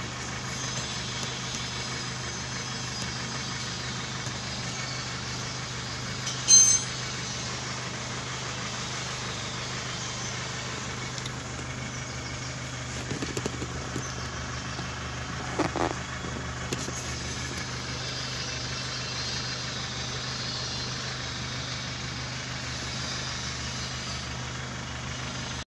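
Chevrolet Cruze engine idling steadily, heard from inside the cabin, with the car in Park. A short, loud high-pitched sound about six seconds in, and a few light knocks later on.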